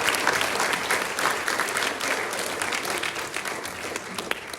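Congregation applauding right after a baptism, many hands clapping, then tapering off near the end.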